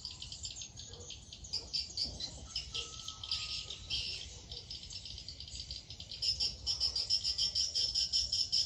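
Insects chirping in a dense, rapid pulsing chorus that grows louder about six seconds in, with a short faint bird whistle near the middle.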